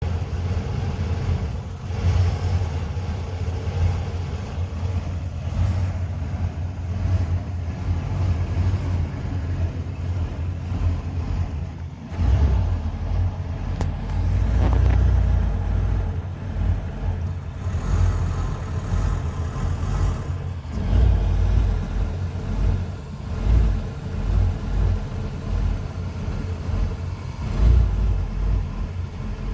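A 1993 Ford E250 van's 5.8-litre V8 idling roughly and unevenly, its speed hunting up and down. This is the rough idle that sets in after about 40 minutes of running, and its cause has not yet been found. A little past halfway, a thin high whistle sounds for about two seconds.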